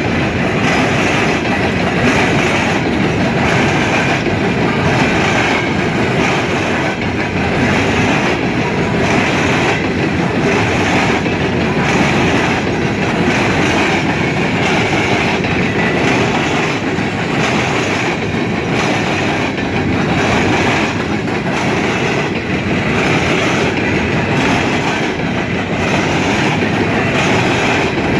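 Empty CSX coal hopper cars rolling past close by: a loud, steady rumble of steel wheels on rail with a regular clickety-clack as the wheels cross the rail joints.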